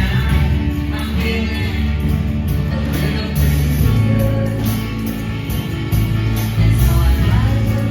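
Rock band playing: held bass notes changing every second or so under electric guitar, with drums keeping a regular beat.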